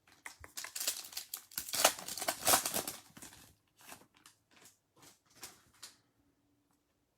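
A trading-card pack's foil wrapper being torn open and crinkled. It is followed by a run of separate soft clicks, about one every half second, as the cards are flicked through one by one.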